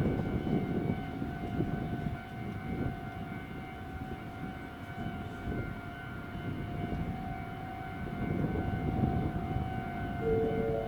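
E7 series Shinkansen train pulling slowly into the platform: a low rumble of wheels and running gear under a steady high-pitched tone that holds one pitch throughout. Near the end a station chime of a few short notes begins.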